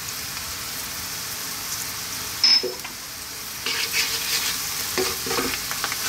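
Onions, garlic and dried chillies sizzling in hot oil in a nonstick wok over high heat. There is a sharp knock about two and a half seconds in, and from about halfway a wooden spoon stirs and scrapes through the pan.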